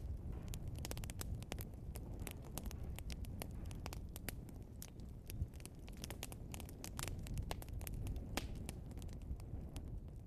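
Burning logs crackling and popping: many sharp, irregular pops over a steady low rumble of the fire.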